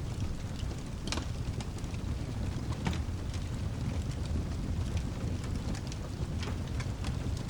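Fireplace crackling with scattered sharp pops, the strongest about a second in and again about three seconds in, over a steady low rumble.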